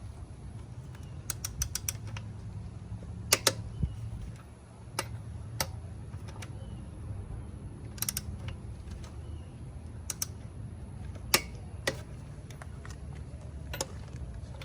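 Scattered metallic clicks and knocks of hand tools at work on the car, including a quick run of several clicks near the start, over a steady low hum.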